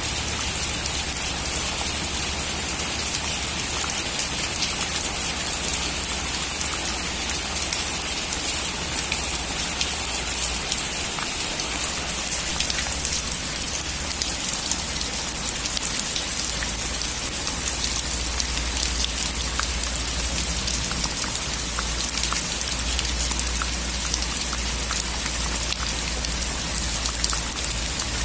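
Steady heavy rain drumming on a metal roof, with a dense patter of individual drop ticks over an even hiss and a low steady rumble underneath.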